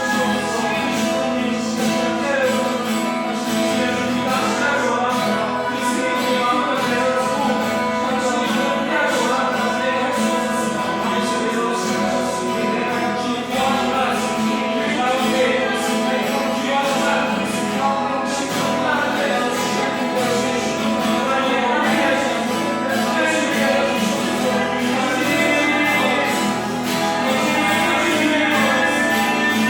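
Worship song: singing with guitar accompaniment, continuous and steady in loudness.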